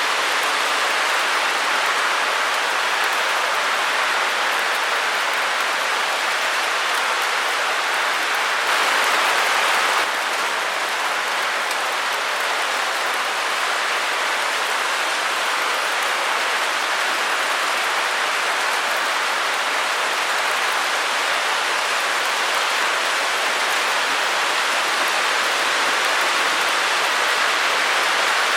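Steady white-noise hiss, even and without any rhythm or tone, with little deep rumble. There is a slight change in level about ten seconds in.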